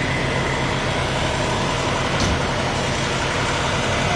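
Heavy truck engine idling, a steady low pulsing hum, with a brief knock about halfway through.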